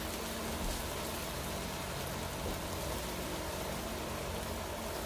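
Cubed potatoes frying in a pan of hot oil, a steady sizzle.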